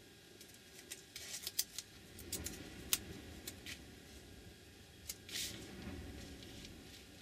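Masking tape being handled and applied to a paper page: scattered small clicks and crackles, with a brief rip of tape about five seconds in.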